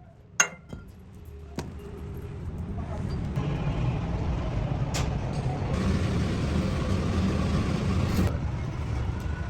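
A large vehicle engine running steadily, building up over the first three seconds after a few sharp knocks near the start.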